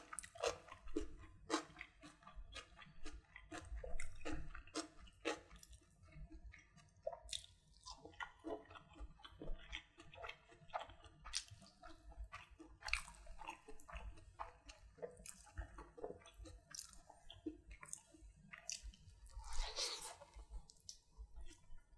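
Close-miked chewing with wet mouth clicks and smacks, at about two chews a second for the first few seconds, then less regular. A longer, louder noisy crunch comes near the end.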